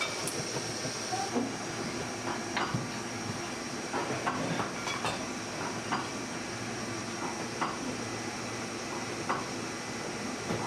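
Steady hiss and hum of the candy workshop, with about a dozen scattered light knocks and clicks as candy dough pieces are handled on the work table.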